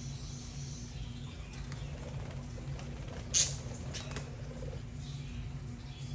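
Budgerigars chattering softly over a steady low hum, with one short sharp sound about three and a half seconds in and a fainter one just under a second later.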